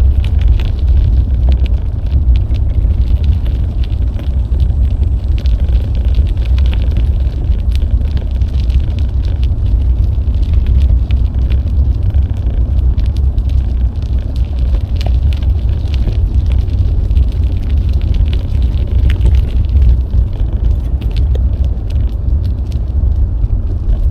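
Wind buffeting an action camera's microphone during a bike ride: a loud, steady low rumble, with scattered light clicks and rattles from the moving bike.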